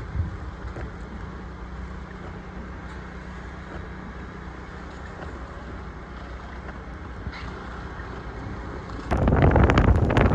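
Steady low rumble and wind noise, then about nine seconds in loud wind buffeting the microphone starts suddenly.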